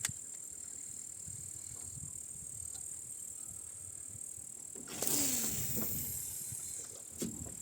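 A rowing boat's oar stroke: about five seconds in, the oarlock creaks with a falling squeak as the oar splashes and drips in the water, fading over a couple of seconds. There is a click near the end, and a steady high-pitched hiss throughout.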